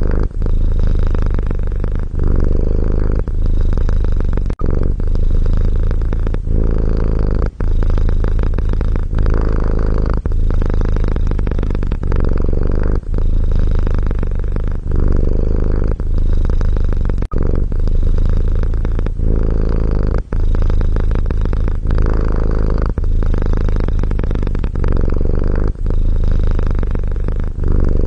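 Domestic cat purring close to the microphone: a loud, deep, continuous rumble that breaks briefly every two to three seconds at each turn of breath.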